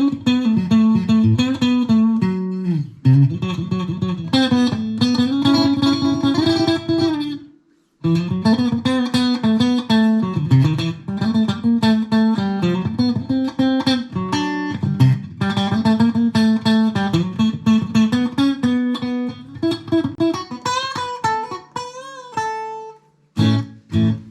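Electric Stratocaster played through a Fender Mustang GTX100 modelling amp preset: a run of quickly picked notes and chords, with a brief break about eight seconds in and notes wavering in pitch near the end.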